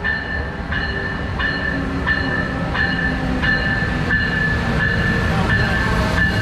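Train running past on the rails: a steady low rumble with high ringing tones from the wheels, and a regular click about every 0.7 seconds.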